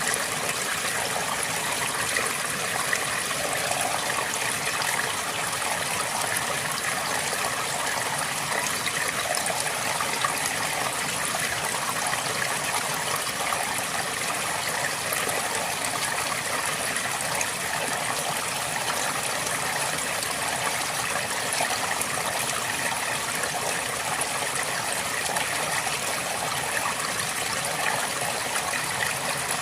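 A river flowing steadily over rocks, a continuous rushing and trickling that stays even throughout.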